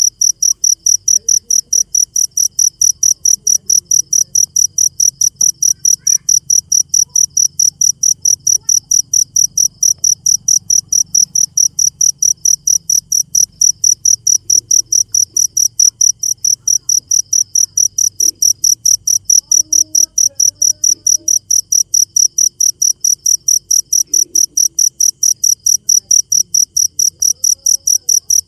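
Cricket chirping loudly in a rapid, perfectly even rhythm of high-pitched pulses that does not change.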